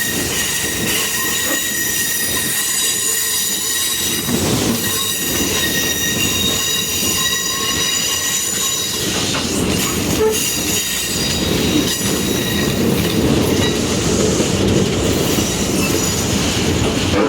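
Passenger train's steel wheels squealing against the rail on a curve, a high ringing squeal over the steady rumble of the cars rolling along the track. The squeal is strongest at first and fades about ten seconds in, leaving mostly the rumble.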